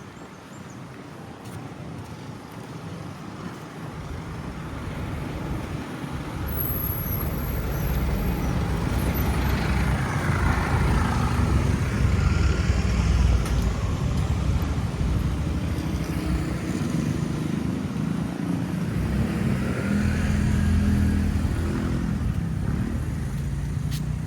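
A motor vehicle's engine growing louder over about eight seconds, then running close and steady with strong low noise.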